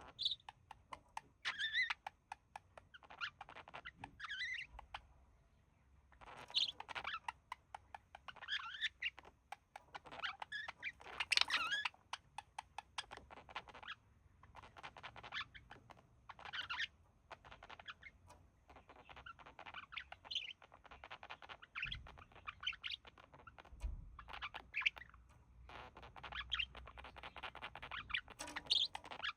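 Budgerigars chattering: bursts of rapid chirps, clicks and warbles, with short pauses between them.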